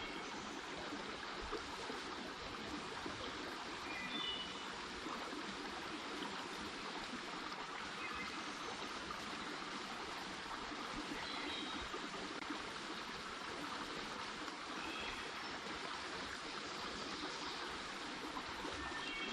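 A small creek's water running steadily over rocks, an even rushing and trickling.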